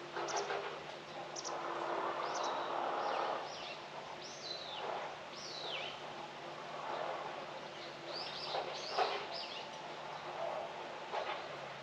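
Wild birds calling outdoors: bursts of short high chirps and several clear whistled notes that fall steeply in pitch, coming in loose groups, over a steady hiss of open-air background noise.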